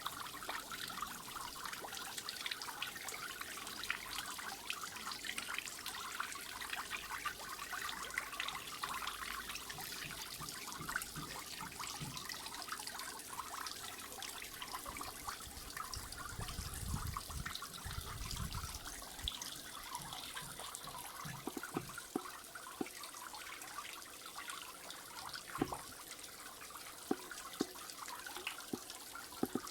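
Water trickling and splashing steadily from a small garden-pond waterfall into the pond, with a brief low rumble about halfway through.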